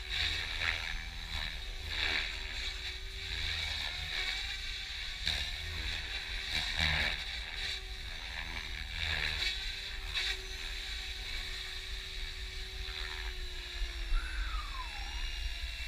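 Electric Compass EXO 500 RC helicopter in 3D flight: the main rotor blades whoosh in repeated surges over a steady whine from the motor and rotor, whose pitch dips briefly near the end.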